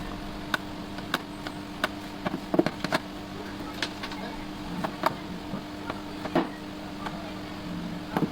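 Irregular sharp clicks and light taps, as of small repair tools working on a tablet's casing and cracked screen, over a steady low hum.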